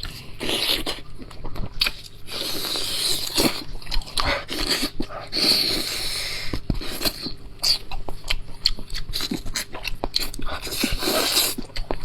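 Close-up eating sounds of braised lamb chops: biting and chewing with wet smacks and many sharp clicks.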